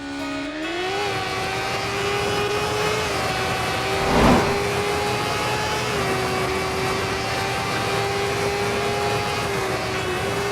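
Motorcycle engine running steadily while riding, its pitch rising at the start and then holding with small shifts, over a constant rushing noise. A brief louder rush comes about four seconds in.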